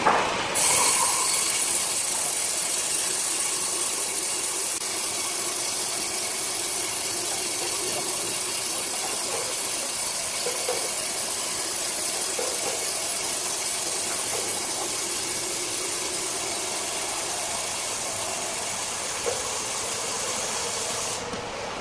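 Large circular saw cutting through a rosewood block: a steady high hiss of the blade in the wood begins about half a second in and cuts off shortly before the end, over the saw's running motor.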